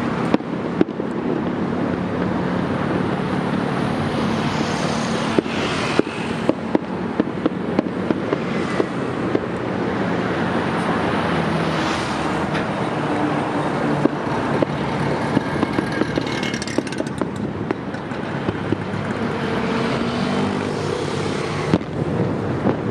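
Fireworks going off: frequent sharp bangs and crackles over a steady background din.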